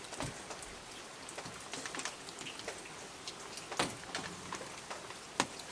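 Steady rain pattering, with scattered small clicks and taps, and two louder knocks, one about four seconds in and one near the end.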